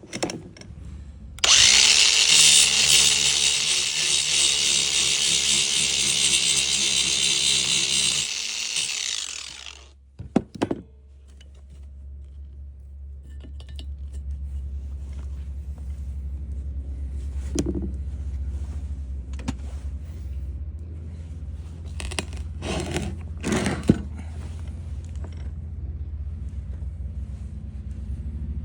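Electric power tool starting up and running steadily for about seven seconds, then stopping. A steady low hum follows, with a few short knocks.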